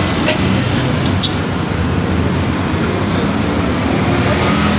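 An engine running steadily, giving a continuous low drone over a background of outdoor noise.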